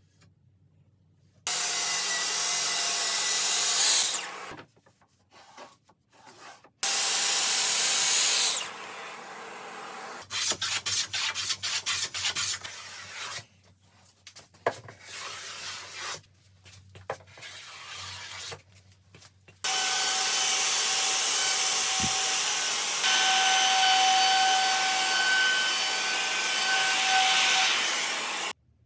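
A power tool cutting a bevel in wood, running in three loud stretches that start and stop abruptly, the last and longest with a steady high whine. Between the cuts there is softer rubbing and clicking of wood being handled.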